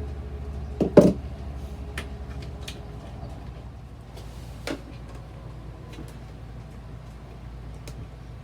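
Screwdriver knocking and clicking against the RV toilet's flush-valve retaining clips: two louder knocks about a second in, then scattered light clicks, over a low steady hum.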